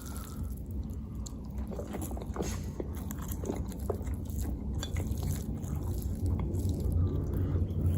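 Close-miked chewing of food, with scattered small clicks of the mouth and a low rumble that grows louder toward the end.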